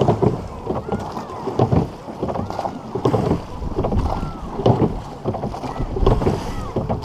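Crew rowing a racing boat hard: oars clunk in their oarlocks and catch the water about every second and a half, over water splashing and wind on the microphone.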